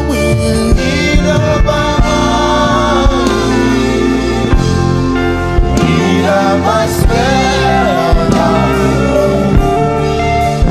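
Gospel worship song: singing over instrumental backing with a steady drum beat, a stroke a little under every second.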